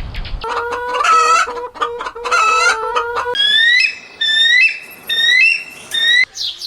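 Bird calls in two parts: first two harsh, rapidly pulsing calls, then from about halfway a run of about five short, clear calls that bend in pitch.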